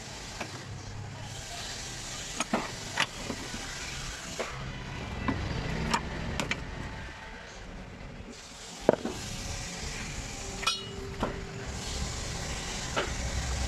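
Hand tools clinking and knocking against metal car parts, about a dozen separate sharp taps at irregular intervals over a steady low hum.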